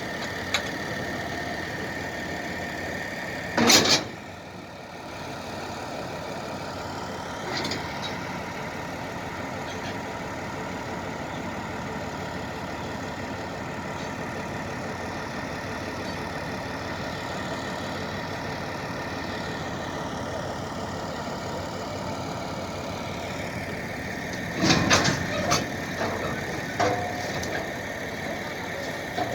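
Engine idling steadily with a thin high whine over it. A single loud bang comes about four seconds in, and a run of loud knocks and clatter comes near the end.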